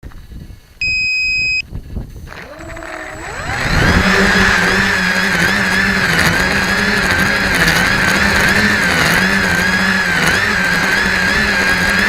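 RC tricopter's electric motors and propellers: a short electronic beep about a second in, then the motors spool up, rising in pitch, and settle into a steady whine whose pitch wavers up and down constantly.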